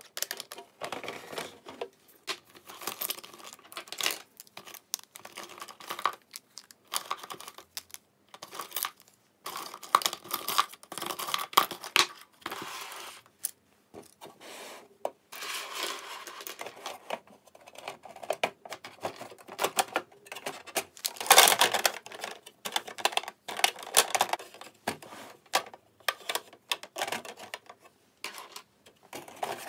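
Small objects being handled by hand: irregular light clicks and taps with rustling and crinkling, as of plastic or paper packaging, loudest a little past the middle.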